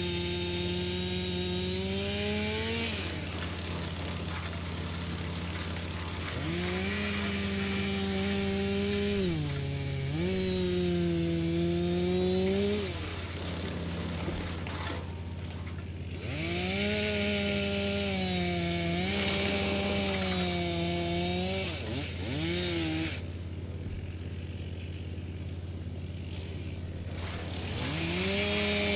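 Wood chipper running, with wood being chipped. Its engine note sags and recovers several times as it takes load, over the rushing noise of the chipping.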